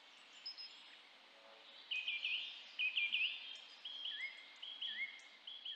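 A small bird chirping repeatedly over faint outdoor hiss: short high notes, several sweeping quickly up or down in pitch, beginning about two seconds in and repeating in small groups.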